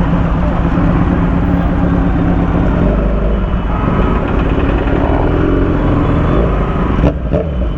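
Motorcycle engine running at a steady speed, with a single sharp knock about seven seconds in.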